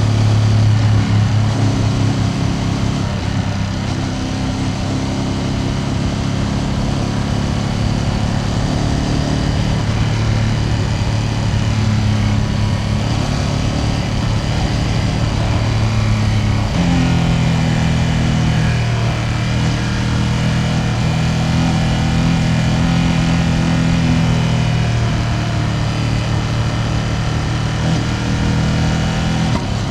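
Ducati Panigale V2S V-twin engine running under way, recorded on the bike, with road and wind noise. The engine note holds steady, then steps up in pitch a little past halfway through and holds again.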